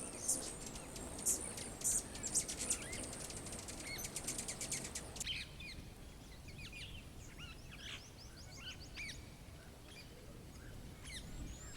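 Forest ambience of birds chirping and calling. For about the first five seconds it is a dense, rapid high chatter over a steady high buzz. Then it switches abruptly to sparser, sweeping bird calls, with quick high chirps near the end.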